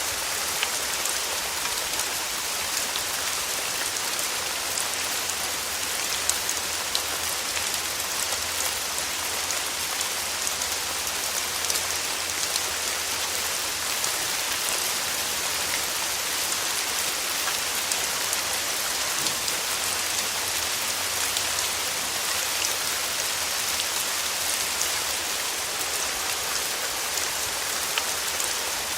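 Steady rain falling, a dense even hiss with many fine drop ticks on a surface.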